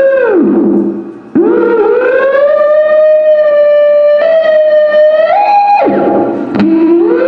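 Homemade theremin played through an Orange amplifier: a loud buzzy tone with many overtones. It swoops down and fades about a second in, comes back and holds a steady pitch for a few seconds, steps up twice, then plunges sharply and settles on a lower note near the end.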